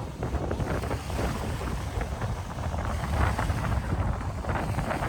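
Strong wind buffeting the microphone, with a rumbling gusty roar over the wash of waves breaking on a lakeshore.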